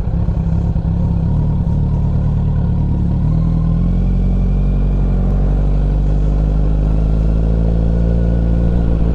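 Kawasaki Z900's inline-four engine, breathing through an aftermarket CS Racing full exhaust, running at a steady engine speed with no big revs.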